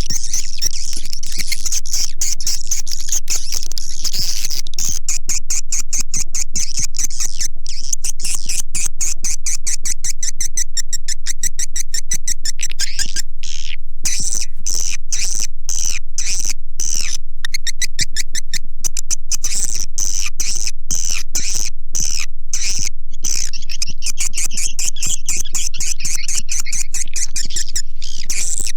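Swiftlet lure call recording: a loud, unbroken stream of rapid chittering and clicking swiftlet calls, the kind played from a swiftlet house to draw swiftlets in to roost and nest.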